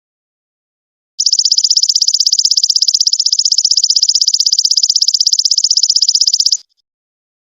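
Belalang emas ('golden locust') insect calling: a high, rapidly pulsing buzz that starts about a second in, runs for about five seconds and cuts off sharply.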